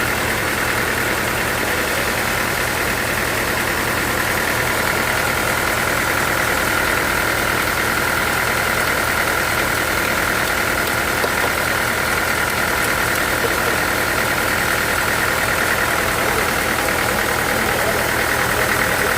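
Sawmill machinery running steadily: a constant engine note with a steady high whine over it.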